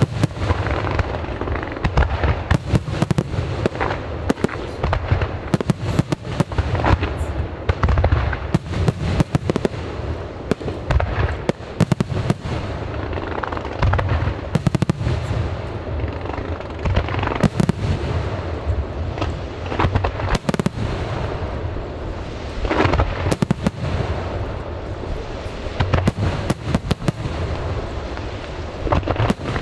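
Aerial fireworks display: a continuous barrage of booming shell bursts with crackling, several bangs a second.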